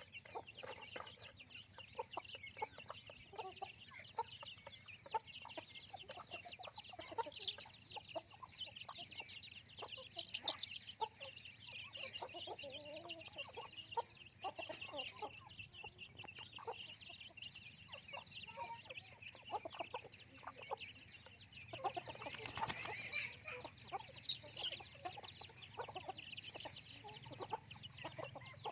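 A flock of village chickens clucking on and off, many short overlapping calls, over a steady high-pitched background drone.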